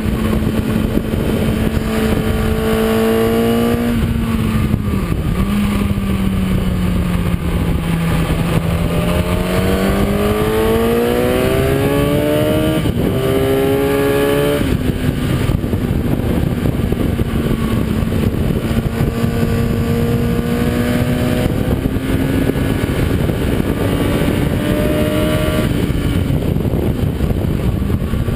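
Kawasaki ZX-10R inline-four engine under hard acceleration on track, heard over heavy wind rush. The engine pitch climbs, drops twice in quick succession about halfway through as it shifts up, then holds high with small rises near the end.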